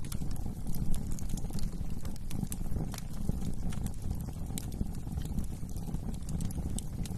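Wood fire crackling: irregular sharp pops and snaps from burning logs over a steady low rush of flames.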